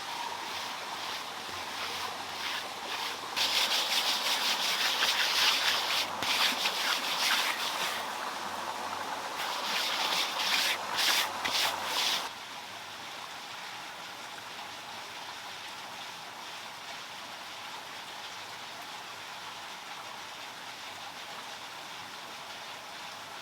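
Rapid rough scraping strokes in two stretches of several seconds, over a steady hiss like running water; the scraping stops about twelve seconds in, leaving only the hiss.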